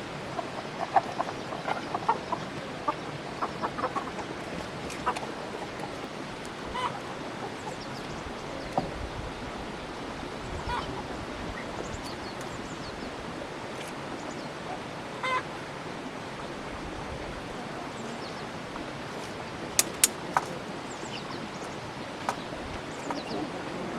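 Farm poultry clucking and calling in short scattered calls over a steady background hiss, with two sharp clicks close together about twenty seconds in.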